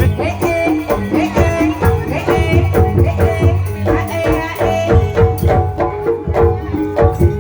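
Ebeg accompaniment music: a traditional Banyumasan ensemble playing a quick, steady run of struck pitched notes over hand-drum beats.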